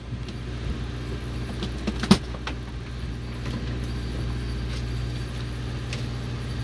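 Fishing boat's engine running steadily with a low hum; a single sharp knock about two seconds in.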